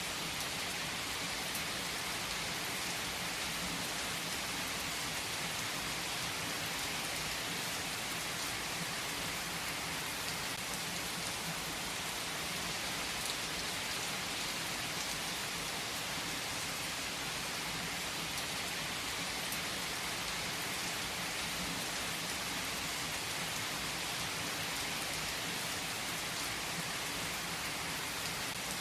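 Steady rain, an even hiss with a few sharper drops heard now and then.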